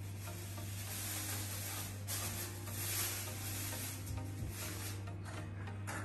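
Food frying in a pan: a steady sizzling hiss with a few light knocks, over a constant low hum.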